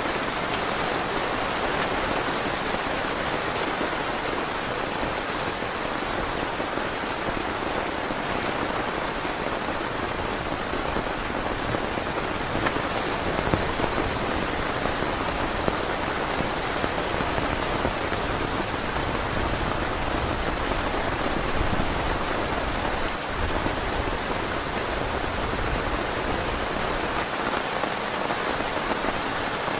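Heavy rain falling steadily, with a few louder drop hits here and there.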